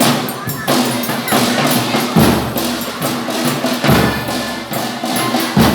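Folia de Reis folk music dominated by drums: a heavy bass-drum beat about every second and a half, with quick snare and hand-percussion strikes filling in between, over faint sustained instrument or voice tones.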